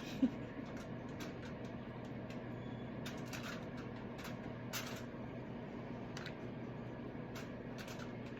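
Scattered light clicks and taps from handling cookie molds and dough, over a steady low hum.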